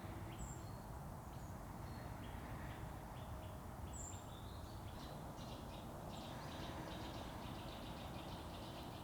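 Quiet forest ambience: a few faint, short bird chirps over a low, steady background noise.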